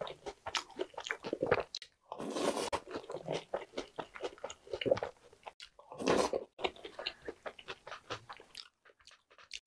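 Close-miked chewing and crunching of Jolly Pong puffed-wheat cereal soaked in milk: quick wet crunches, with louder bursts about two and six seconds in. It falls quiet near the end.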